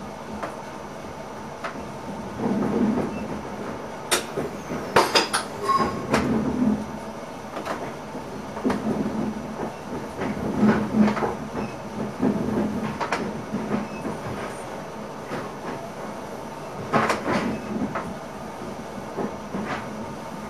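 Running noise of an NS ICM electric multiple unit heard in the driver's cab: a steady low rumble with repeated knocks, and clusters of sharp clicks about four to six seconds in and again around seventeen seconds.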